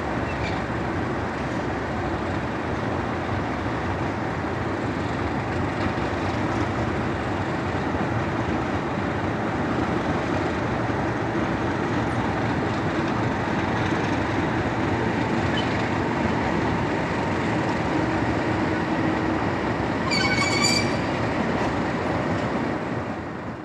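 Diesel train running along the track with a steady rumble, and a brief high wheel squeal about twenty seconds in.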